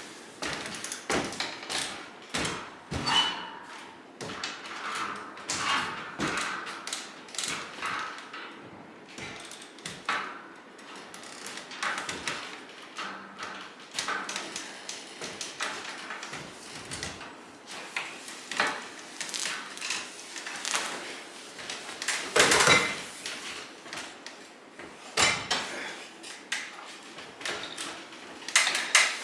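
Irregular knocks, clunks and scraping of motorcycle parts and containers being handled and moved about, with the loudest clunk about two-thirds of the way through and another a few seconds later.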